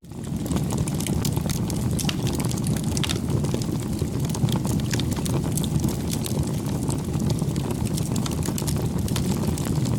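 Campfire burning, with a steady low rush of flames and frequent sharp, irregular crackles and pops of burning wood. The sound briefly dips out at the very start.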